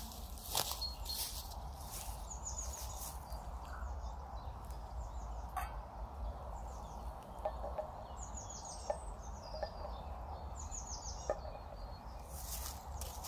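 A small songbird singing short phrases of quick, high, descending notes, repeated every few seconds, over a steady low rumble of wind on the microphone. A few light knocks come through now and then.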